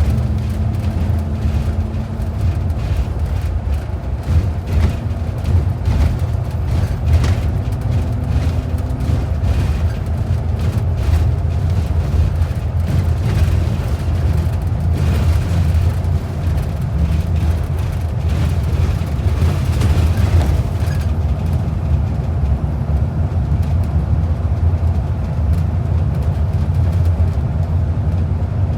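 Transit bus in motion, heard from inside the cabin: a steady, loud low rumble of engine and road noise with light rattles and knocks. A steady hum runs through the first third.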